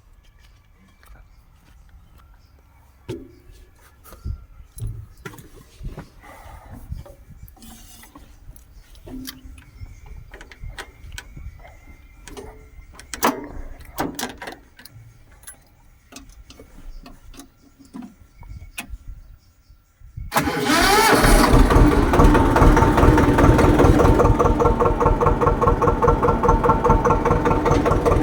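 Swaraj tractor's diesel engine starting about two-thirds of the way in, catching at once and running on at a steady, loud idle. Before that there are only scattered light clicks and knocks.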